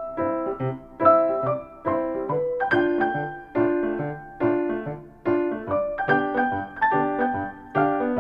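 Background music: a piano (or electric piano) playing a light tune, with notes struck in a steady rhythm over a bass line.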